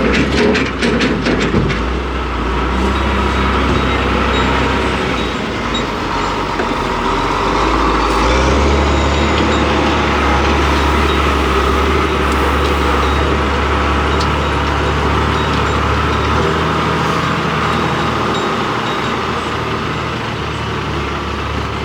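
An engine running steadily, its low hum changing pitch about eight seconds in.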